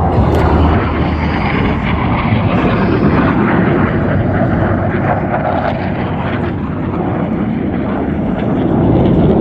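Jet aircraft flying past at an airshow, a loud steady rushing engine noise that eases a little past the middle and swells again near the end.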